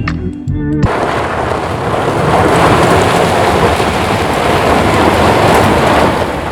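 Music gives way sharply, about a second in, to a loud rushing noise with no pitch. The noise swells a little and holds steady for about five seconds before the music returns.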